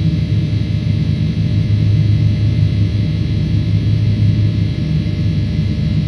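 Steady industrial electrical hum: a constant low drone with a ladder of fainter higher tones above it, unchanging throughout. It is the sound of energized drive equipment, such as the frequency converter and its transformer, while the pre-start of the 900 kW synchronous mill motor is still under way.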